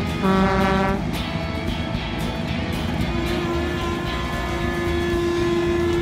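Cartoon truck horn sounding one short honk about half a second in, over a low engine rumble. Background music follows, with a long steady tone held from about three seconds in.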